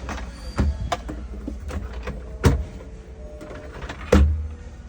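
Refrigerator doors and drawers being handled: a series of clicks and knocks over a low steady rumble, with the loudest knocks about two and a half seconds and four seconds in.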